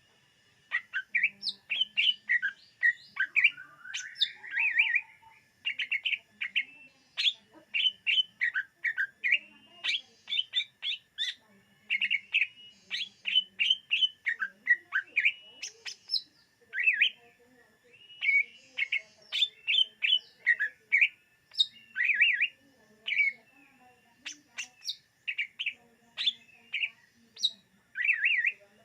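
Cucak ijo (green leafbird) singing a rapid, varied song of quick chirps and short whistles in long phrases, with brief pauses between them.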